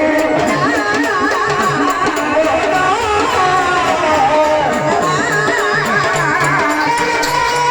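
Marathi gavlan folk music: a quick, steady drum beat under a wavering, ornamented melody line.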